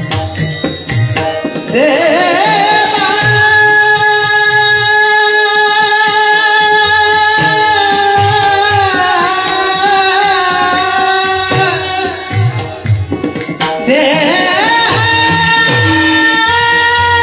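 Devotional kirtan singing: a high voice glides up and holds one long note for about ten seconds, then climbs into another held note near the end. Hand-drum beats accompany it.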